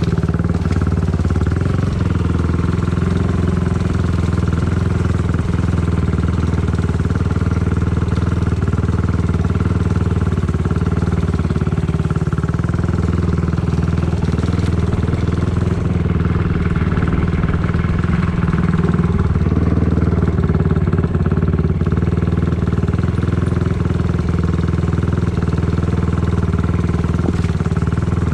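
Dirt bike engine running at a nearly steady pitch while being ridden, with no big revs or shifts.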